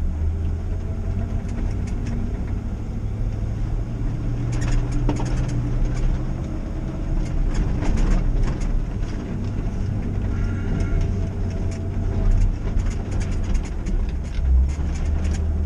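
An old pickup truck driving: a steady low engine and road rumble, with frequent light rattles and ticks.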